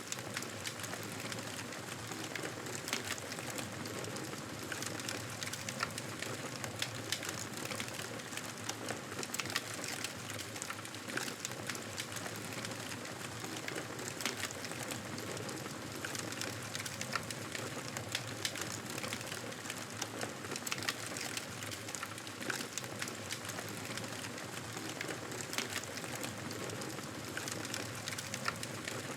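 Campfire crackling: a steady hiss of burning wood with frequent small, sharp pops and snaps.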